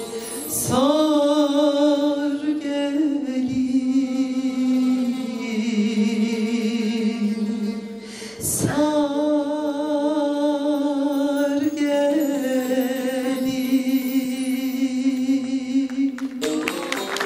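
A singer's voice in a Turkish folk song, holding long wavering notes over two long phrases. Applause starts near the end.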